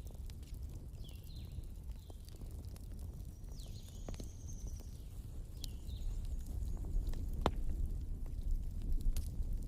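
Wood fire crackling, with a few sharp pops over a low steady rumble. Short high chirps repeat every second or two, with one longer high call near the middle.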